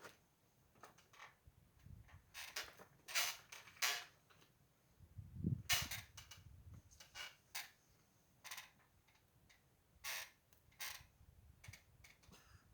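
Wood fire crackling, with irregular sharp pops from the burning firewood.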